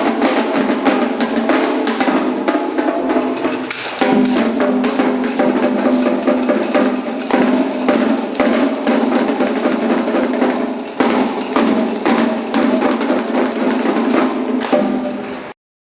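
Candomblé atabaque drumming: dense, rapid drum strikes with steady ringing tones under them, cutting off abruptly near the end.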